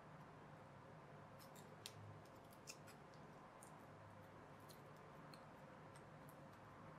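Faint scattered small clicks and ticks of plastic toy parts being handled and worked apart, over a low steady hum. Two of the clicks, about two and three seconds in, are a little louder.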